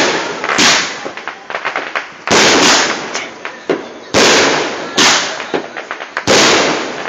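Fireworks going off: about six loud bangs in seven seconds, each fading out quickly, with fainter crackling pops between them.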